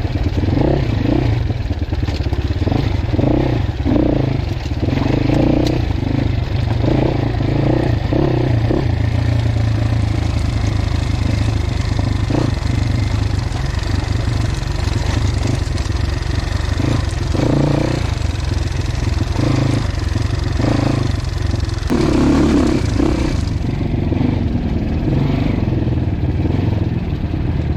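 Dirt bike engine running while being ridden over rough ground, the throttle opening and closing repeatedly, with clattering from the bike over the terrain.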